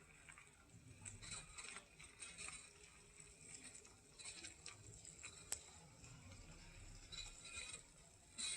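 Faint, irregular rustling and crackling of leaves and twigs as a bull moose browses, in short clusters every second or so.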